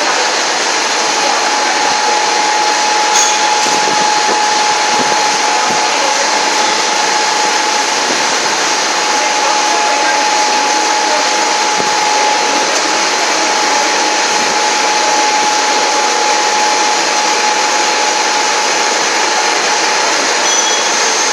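VEG-25 end mill grinder running, its motor giving a steady whine over an even rushing noise, with a brief click about three seconds in.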